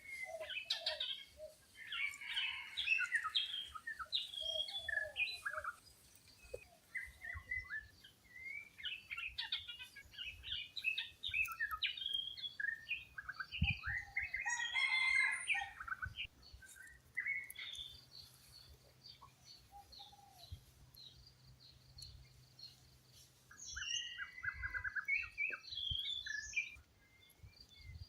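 Several wild birds chirping and calling, many short high notes overlapping. The calls are thickest through the first half, thin out to a lull, and pick up again near the end.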